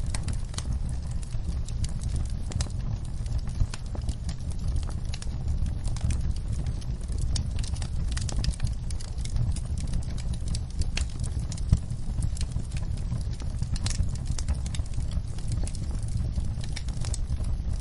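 Wood fire in a fireplace crackling: irregular sharp pops and snaps over a steady low rumble of the flames, with one louder pop about twelve seconds in.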